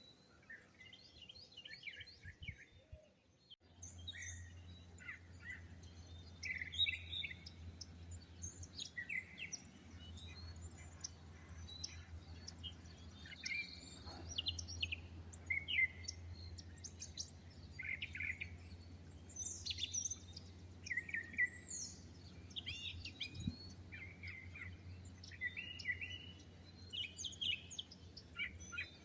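Several songbirds chirping and singing, a busy run of short calls and trills overlapping one another. A low steady hum sits underneath from about four seconds in.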